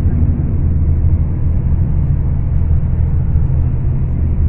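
Scania K410 coach's diesel engine running under way: a steady, deep drone with no change in pitch.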